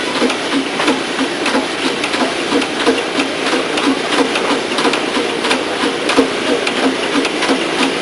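Fast, steady mechanical clatter of regular clicks, about five or six a second.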